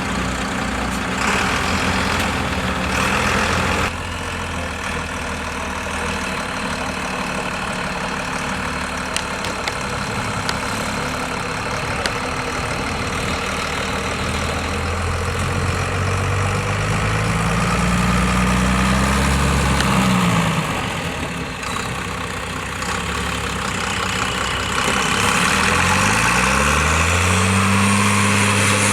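Diesel engine of a MAN 6x6x6 truck trial prototype running steadily, then revving up under load, its pitch climbing for several seconds before dropping off suddenly about two-thirds of the way through. It climbs again near the end and holds at the higher pitch.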